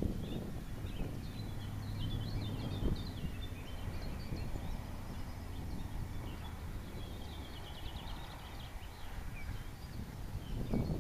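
Small birds chirping and twittering throughout, with a low wind rumble on the microphone that gusts briefly about three seconds in and again near the end.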